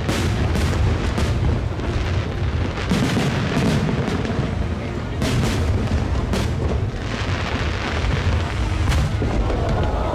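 Fireworks display: aerial shells bursting one after another over a continuous low rumble, with sharp bangs every second or so.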